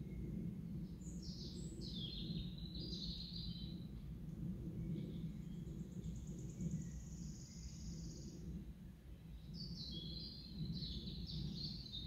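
Songbirds singing in spring woodland: a quick warbling phrase about a second in and another near the end, with a high buzzy trill in between. Beneath them runs a steady low background rumble.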